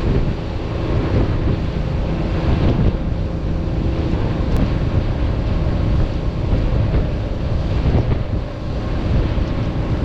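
Small boat running under way at speed, its engine droning steadily under heavy wind buffeting on the microphone and water rushing past the hull.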